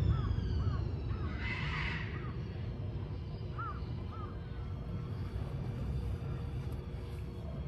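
Birds calling: short chirped notes in a quick run at the start and twice more near the middle, with one harsh caw-like call about a second and a half in, over a steady low rumble.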